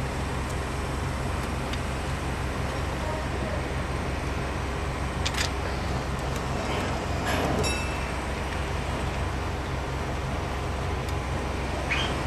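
Roofing work: a steady low machine hum with a few short knocks and scrapes, one about five seconds in, a cluster at about seven and a half seconds, and one near the end.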